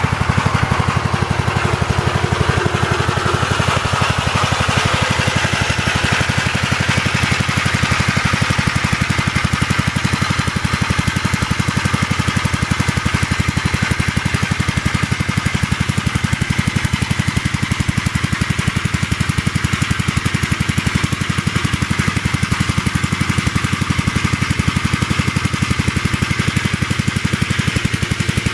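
Gravely tractor's single-cylinder engine running steadily with a rapid, even firing beat, driving the four-wheel-drive dump truck on gear reduction wheels.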